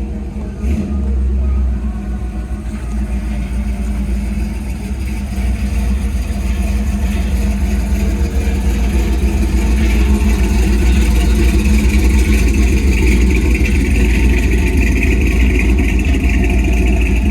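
Engine of a 1937 truck fitted with aftermarket exhaust pipes, running at idle with a deep, steady rumble that grows louder over the first ten seconds or so, then holds. The speaker calls it 'pretty nice'.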